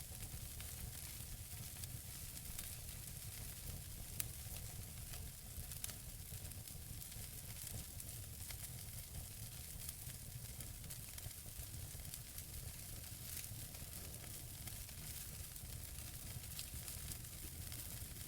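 Wood fire burning in a fireplace: a steady hiss with a low rumble, and scattered sharp crackles and pops from the burning logs, one louder pop about four seconds in.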